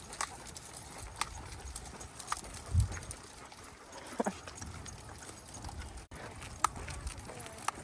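Footsteps on a walk with a pack of leashed dogs, with scattered light clicks, a thump just under three seconds in and a short falling squeak about four seconds in.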